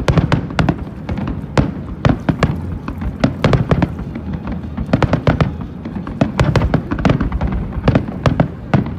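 Fireworks display: many bangs in quick, irregular succession, several a second, over a steady low rumble.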